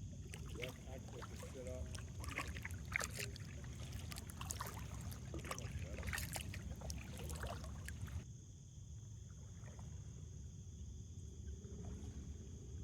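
Kayak paddle strokes: irregular splashes, drips and knocks of the paddle for about eight seconds, then a quieter stretch of gliding with only a low rumble. A faint steady high-pitched tone runs underneath.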